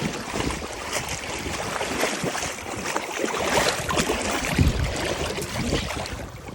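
Ocean surf washing in, with wind buffeting the microphone in gusts.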